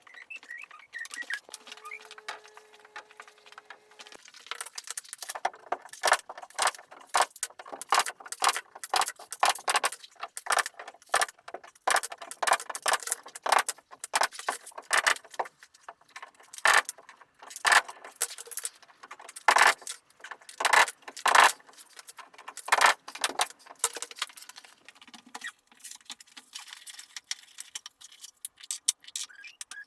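Irregular sharp knocks and metallic clatter from carpentry tools and materials being handled and struck, several a second, starting about five seconds in.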